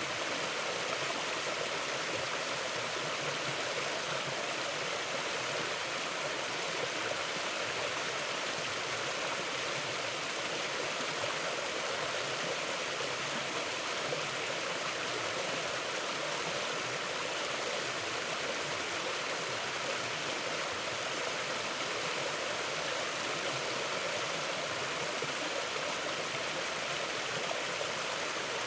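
Steady rushing of a forest stream flowing over rocks, an even, unbroken water sound.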